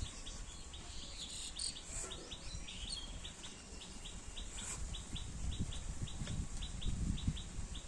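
A small bird repeating a short, high chirp, about three or four times a second, over a low rumble.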